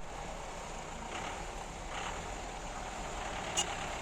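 Steady low background noise of vehicle engines idling, with a single short click about three and a half seconds in.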